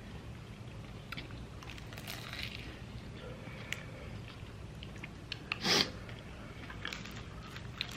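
A person chewing crunchy fried food close to the microphone, with scattered small crackles and one louder crunch about five and a half seconds in.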